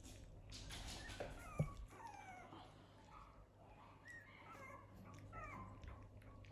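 Puppies whimpering in a string of short, falling whines, with one sharp knock about a second and a half in.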